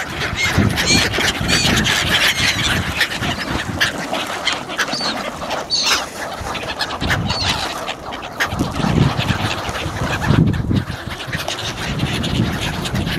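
A flock of birds calling, many short calls overlapping with hardly a break.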